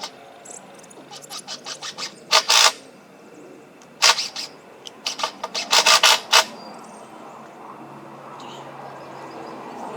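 Screws being driven into a 2x2 wooden frame: a run of small clicks, then three short clusters of loud, sharp clatter about two and a half, four and six seconds in.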